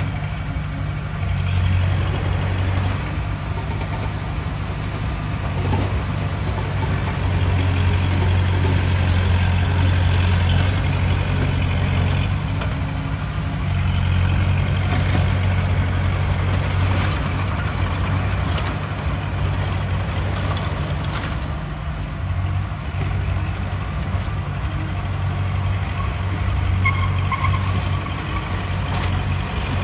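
Heavy diesel engine of earthmoving machinery running steadily under load, with scattered knocks and rattles.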